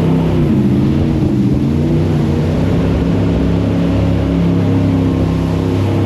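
Jet boat's engine running hard under way, its pitch wavering up and down for the first couple of seconds, then holding steady.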